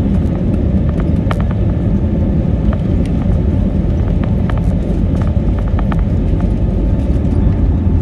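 Aircraft takeoff: a loud, steady low rumble with scattered rattling clicks throughout.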